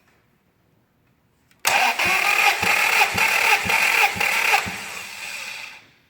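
Toyota 3S-GE inline-four engine being cranked over by its starter motor for a compression test, without firing. It starts abruptly and pulses about twice a second for roughly three seconds, then carries on more quietly for about a second before stopping.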